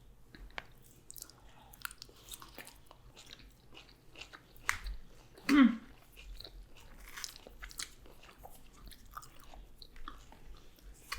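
Close-up eating sounds: a person chewing and biting into chow mein noodles and takeout food, with many small irregular wet clicks and crunches. There is a brief hummed "mm" about five and a half seconds in.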